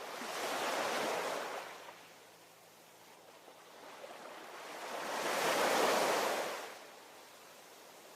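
Ocean waves: two surges of surf, a smaller one about a second in and a louder one around six seconds, each swelling and then fading back to a low wash.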